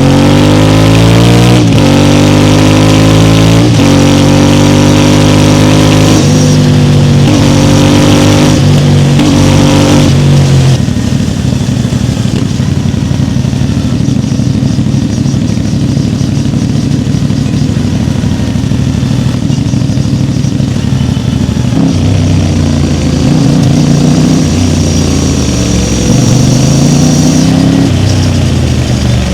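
CFMoto 450MT's parallel-twin engine pulling up through the gears, its pitch rising and dropping back at each of several shifts. About ten seconds in it settles to a steadier, lower drone, and near the end the revs rise and fall again.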